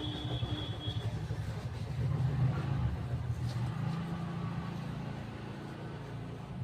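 Low, steady rumble like a motor vehicle's engine, growing a little louder midway and then easing off.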